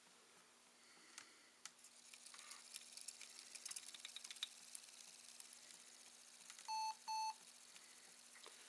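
Two short, high beeps about half a second apart from a ThinkPad T61 laptop at power-on: its fan-error warning, the sign that the cooling fan is not detected. Before them there is a run of light clicks and crackles.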